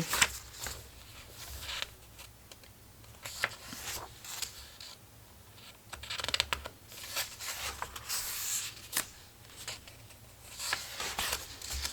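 Paper pages of a collage book being turned and handled, with intermittent rustles and short flicks of paper.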